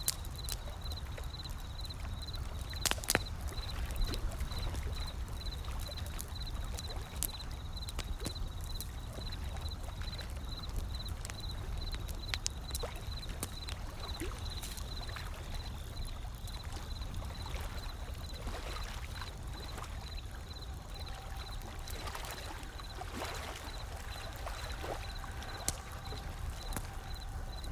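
Wood fire crackling with scattered sharp pops over a steady low rumble of ocean waves.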